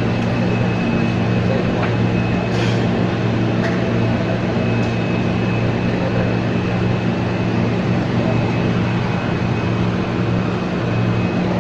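Running noise of an ex-JR 203 series passenger car, hauled by a PNR diesel locomotive: steady wheel-and-rail rumble with a steady low hum and a faint high whine throughout.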